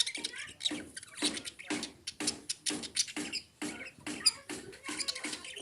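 Pet lovebirds chattering in a rapid run of short, scratchy chirps and clicks, about two or three a second.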